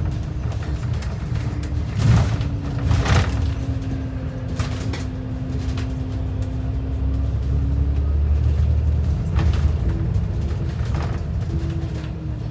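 Inside a moving bus: a steady low engine and road rumble under a held drivetrain whine that drifts slightly in pitch, with several knocks or rattles scattered through.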